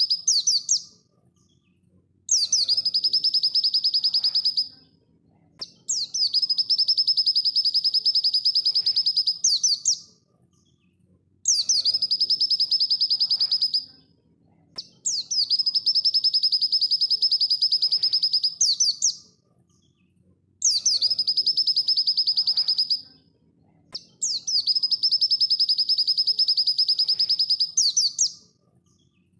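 Pleci dakun (white-eye) song at full speed: a rapid, high-pitched trill that ends in quick sweeping notes. The bursts last about three to four seconds each and repeat about every five seconds with short pauses between them.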